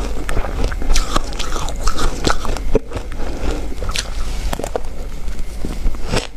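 Ice being bitten and chewed close to the microphone: a dense, irregular run of crunches and cracks, with a brief lull a little before halfway.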